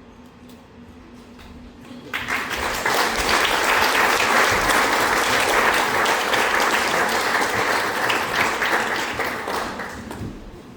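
Audience applauding, breaking out suddenly about two seconds in and dying away near the end.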